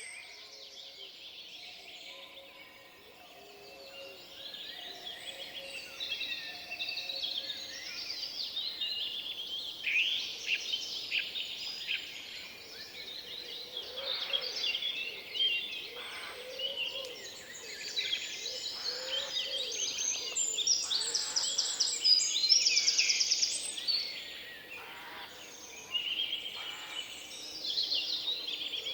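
Several songbirds singing at once in a forest, a dense mix of overlapping chirps and trills that swells and fades.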